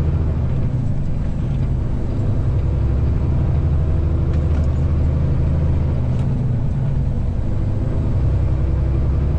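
Semi truck's diesel engine droning steadily at highway speed, heard from inside the cab, with road noise and a couple of faint clicks about halfway through.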